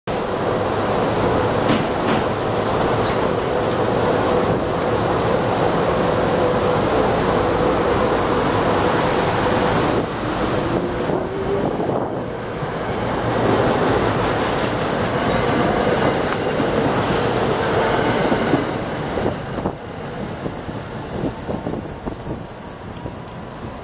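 SEPTA Silverliner IV electric commuter railcars moving past, wheels clattering over the rail with a steady hum from the cars, fading about nineteen seconds in once the last car has gone by.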